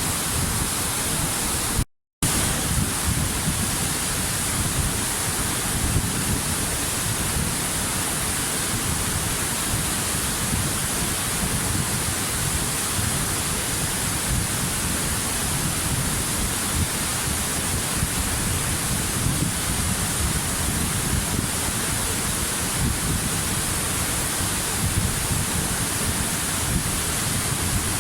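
A waterfall's steady rush of falling water: an even, dense roar with a low rumble and a bright hiss. The sound cuts out completely for a split second about two seconds in.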